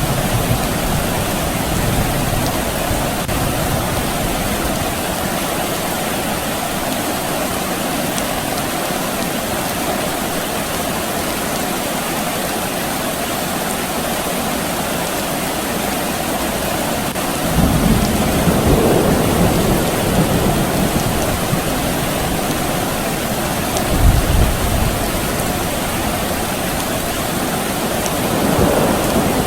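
Steady rain with distant thunder. Low rolls of thunder come a little past halfway, again briefly a few seconds later, and near the end.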